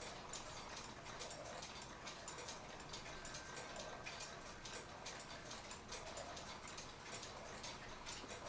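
Faint, steady ticking of a mechanical wind-up clock.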